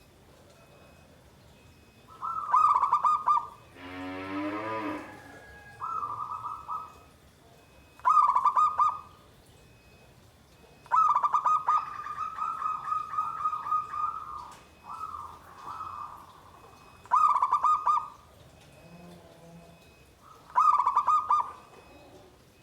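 Zebra dove (perkutut) cooing: a series of short coo phrases repeated every few seconds, with one longer drawn-out phrase about eleven seconds in. A different, lower call sounds briefly about four seconds in.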